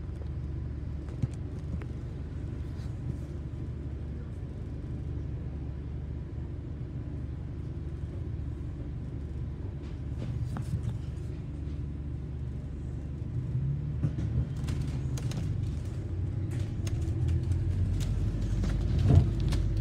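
London bus under way: a steady low rumble of engine and road noise. It grows louder over the last few seconds, with scattered rattles and clicks.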